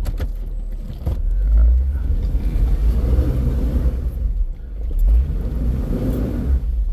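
Jeep engine revving in repeated surges under load on a steep off-road climb, its wheels spinning for grip.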